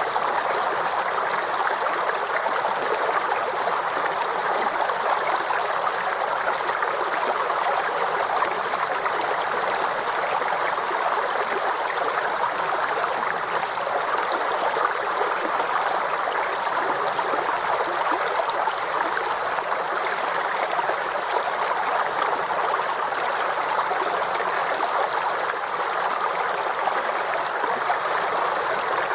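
Forest stream flowing steadily, a continuous rush of water with no pauses or changes.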